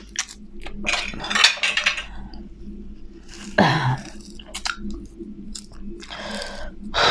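A person chewing and biting food, with many small wet mouth clicks and louder bites about a second in, at three and a half seconds, and near six seconds.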